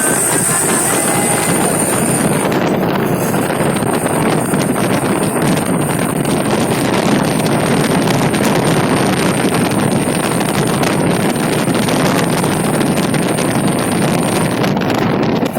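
Steady rush of wind on the microphone mixed with engine and road noise from a vehicle driving at speed.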